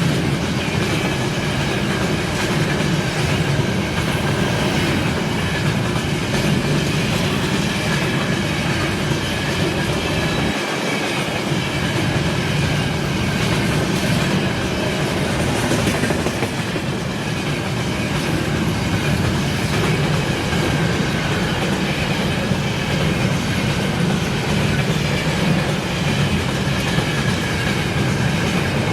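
A train rolling past on the line, a steady, unbroken rumble of wheels on rail.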